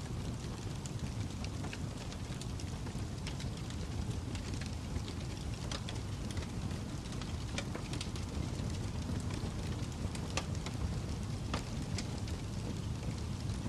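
Fire crackling: a steady low rush with irregular sharp snaps and pops scattered throughout.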